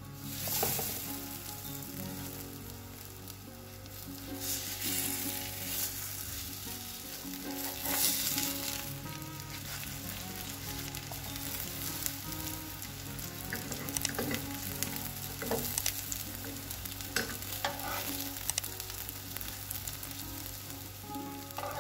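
Folded crêpe parcels sizzling in a hot non-stick frying pan as they brown. Several scrapes and clicks in the second half as a metal slotted spatula turns them over.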